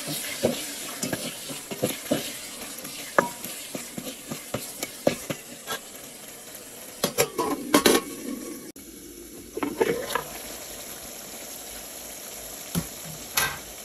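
Food sizzling in a cooking pot while a spoon stirs it, with many sharp clicks and scrapes of the spoon against the pot and a louder bout of knocking and scraping about halfway through.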